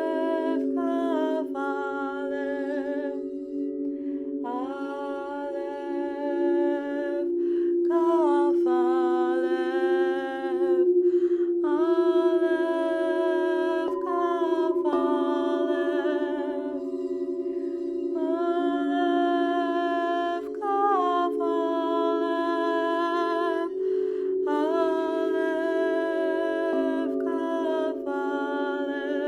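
A woman's wordless vocal toning: about eight long held notes, each a few seconds long, stepping in pitch, over a steady drone of singing bowls.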